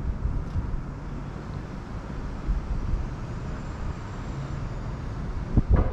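Low, steady rumble of a train at the railway line, with two sharp knocks near the end.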